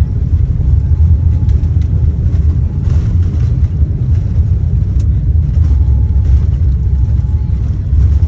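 Steady low rumble of a vehicle in motion, heard from inside it, with a faint high tone that comes and goes.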